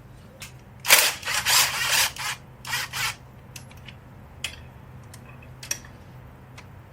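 Metal exhaust hardware and hand tools clattering in several short bursts, followed by a few faint clicks, as the loose exhaust bolts and spacer are fitted.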